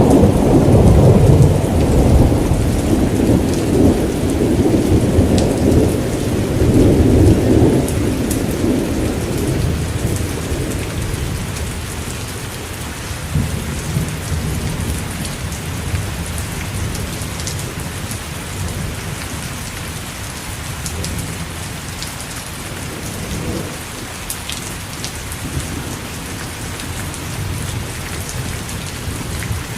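Steady rain falling, with a long roll of thunder rumbling low for the first several seconds and dying away by about ten seconds in, leaving the even patter of rain with occasional distinct drops.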